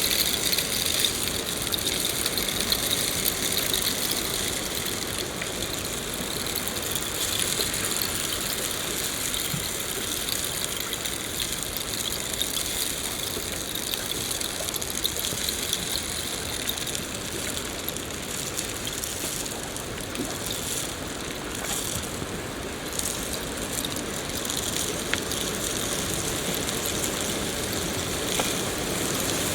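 Steady rain, an even hiss that keeps going without a break.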